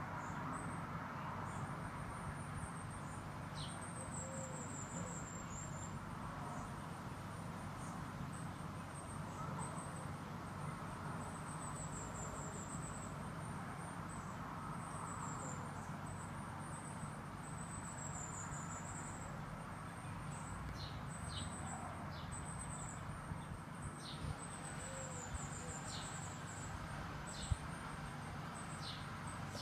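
Small garden songbirds calling with high, thin notes and short falling trills, repeated every few seconds over a steady low background rumble.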